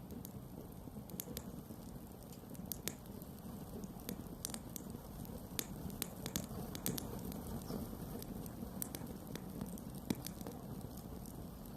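Wood campfire crackling: irregular sharp pops and snaps over a steady low rumble of burning flames, with one louder pop about ten seconds in.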